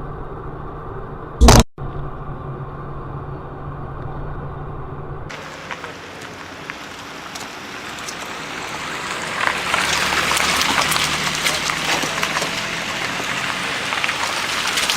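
Steady low hum of a car heard from inside the cabin, broken about a second and a half in by one sudden very loud bang. It then gives way to a loud, crackling hiss of road or rain noise.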